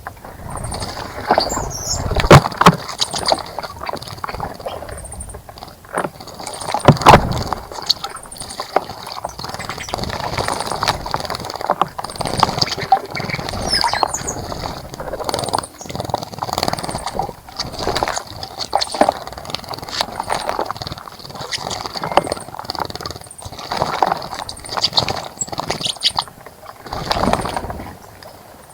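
Birds splashing in a bird bath in short, irregular bursts, with high chirps and short call notes from birds.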